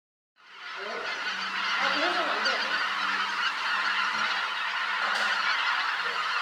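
A flock of birds honking, many calls overlapping in a dense, continuous chorus that starts just after a sudden cut.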